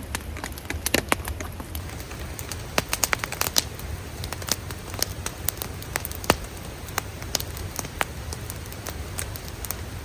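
Wood campfire crackling: irregular sharp snaps, bunched in a quick run about three seconds in, over a steady low rumble.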